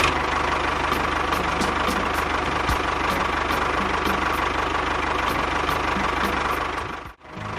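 An engine idling steadily with a fast, even putter. It cuts out abruptly for a split second about seven seconds in, then carries on.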